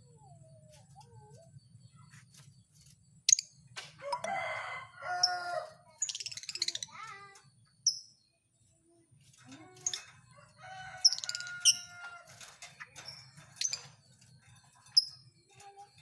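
Lovebirds calling: short, sharp high chirps recur every couple of seconds, and two longer, lower calls come about four seconds in and again about ten seconds in.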